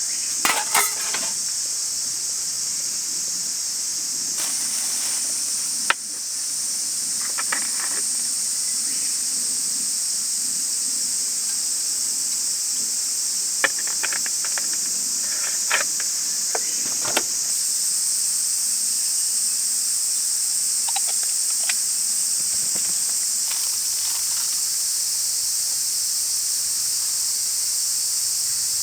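Steady, loud, high-pitched chorus of summer insects droning without a break, with a scattering of short sharp clicks and knocks on top, the loudest about six seconds in.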